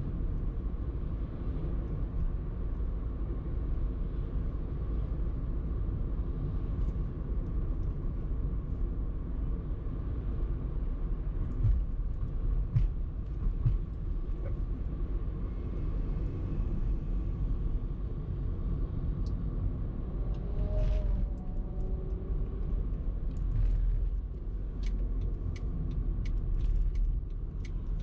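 A car driving in traffic: steady low rumble of engine and road noise. Near the end comes a run of sharp, evenly spaced ticks.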